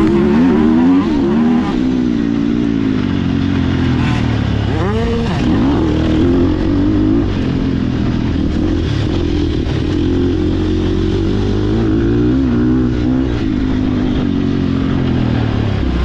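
Sherco SEF300's single-cylinder four-stroke engine revving up and down as the bike is ridden, with a sharp rise in revs about five seconds in.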